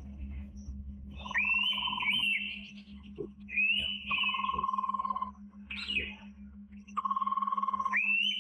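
Wild birds calling in forest: about four whistled phrases, each about a second long, with quick rising slurs over a held, wavering note, and a steady low hum underneath.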